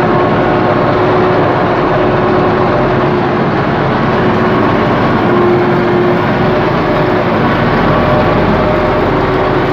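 U650 tractor's four-cylinder diesel engine running loud and steady under ploughing load, heard up close from the driver's seat.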